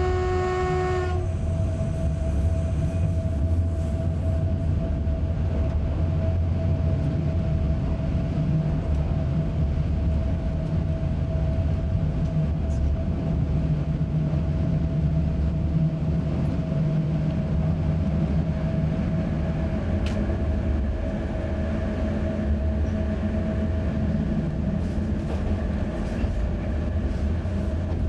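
Electric train heard from the driver's cab: a horn blast cuts off about a second in, then the train runs on with a steady low rumble and a steady whine.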